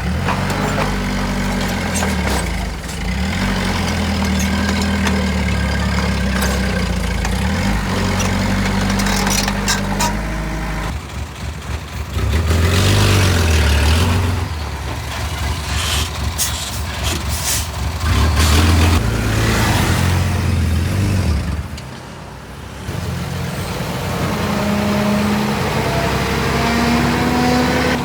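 Heavy diesel construction machinery engines running under load, rising and falling in speed with surges of revving, a dip about three quarters of the way through, and a rising engine pitch near the end, over scattered knocks.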